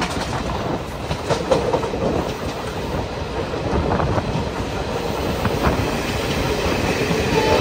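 Express passenger train running on the track: a steady rumble of the coaches with the wheels clacking over rail joints. A faint steady whine comes in near the end.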